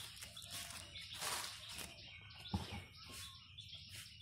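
Small birds chirping repeatedly, high and brief, with a single low thump about two and a half seconds in.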